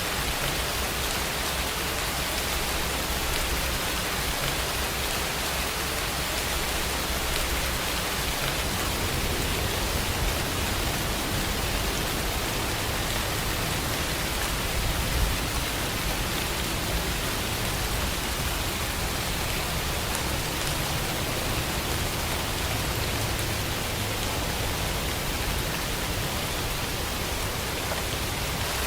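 Steady rain falling, an even unbroken hiss with a low rumble underneath that swells and fades over several seconds.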